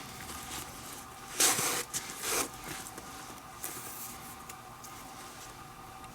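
Leather lace being pulled through the lace holes of a baseball glove: two short, loud rubbing pulls about a second and a half and two and a half seconds in, with light handling ticks around them.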